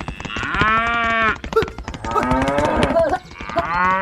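Two long, drawn-out animal calls of about a second each, one near the start and one near the end, over a steady rapid clicking.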